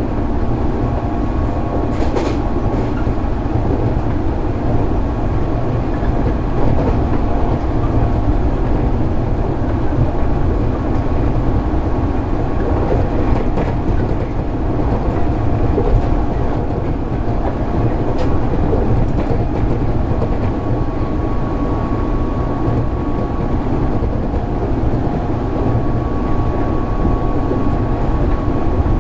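JR East 205 series 600 subseries electric train running, heard from inside the carriage: a steady rumble of wheels on rail with a steady hum and a few faint clicks from the rail.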